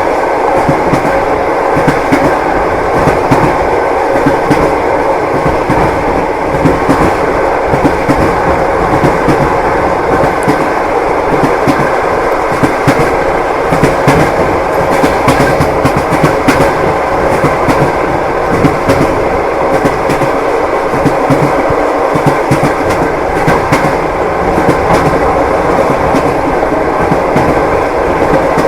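Railway carriage in motion: a steady rumble of wheels on rails with frequent irregular clacks as the wheels cross rail joints.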